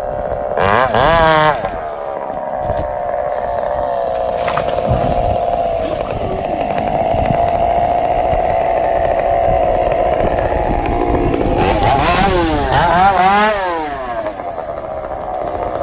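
Two-stroke chainsaw cutting timber, running steadily under load. It revs up and down briefly about a second in and again a couple of times near the end.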